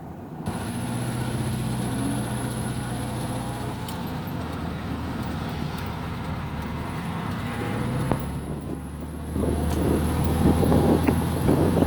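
Air-cooled flat-four engine of a 1970 VW Beetle running on the move, with road noise. About nine and a half seconds in it gets louder and rougher as the car pulls harder.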